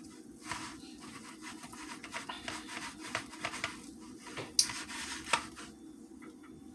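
Kitchen handling while cutting up a rotisserie chicken: soft scraping and rubbing with scattered small taps, and two sharper clacks about four and a half and five and a half seconds in.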